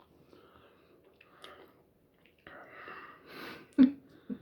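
A person breathing hard through the mouth, hissing out air after a bite of fiercely hot chilli curry, with a sharp mouth click near the end.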